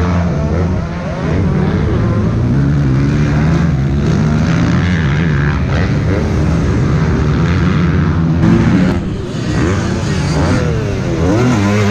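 Several motocross bikes racing past on a dirt track, their engines revving up and down through the gears, with quick rising revs near the end.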